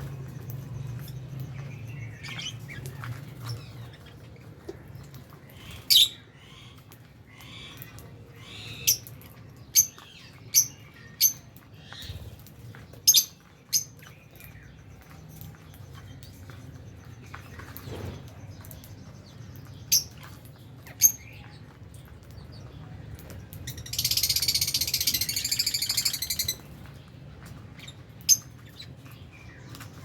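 Lovebirds chirping: short, sharp, high chirps scattered through, with a dense couple of seconds of rapid chattering about three-quarters of the way in, the loudest part.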